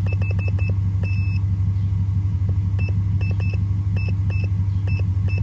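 Steady low drone of the Lexus GS F's V8 idling, heard from inside the cabin, with a run of short high beeps and small clicks as the buttons of a handheld OBD2 scanner are pressed to scroll its menu.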